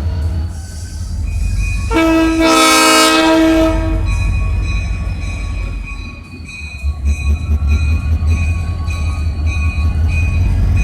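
Locomotive sounding one long horn blast, lasting about two seconds, starting about two seconds in, over the steady low rumble of the train running. A high, evenly pulsing ringing tone carries on after the blast.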